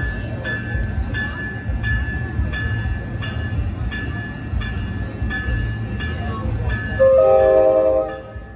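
A railroad bell ringing steadily, about two strikes a second, over the low rumble of a commuter train, then one loud horn blast about a second long near the end.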